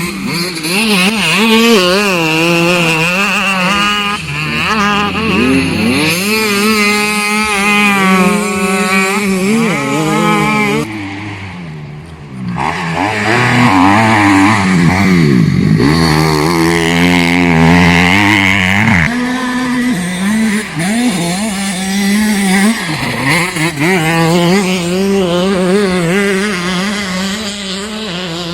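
Motocross bike engines revving hard and falling back as the bikes ride the track, pitch climbing and dropping through the gears, with more than one engine at once. About two-thirds of the way through, a bike passes close with a sweeping change in pitch; there is a short quieter spell a little before that.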